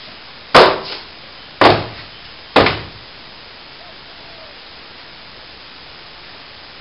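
Three hard knocks about a second apart, each with a short ringing tail.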